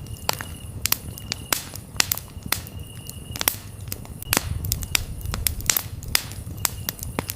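Campfire crackling, with irregular sharp pops of burning wood over a low, steady rumble of flames. Crickets chirp in short high trills, roughly once a second.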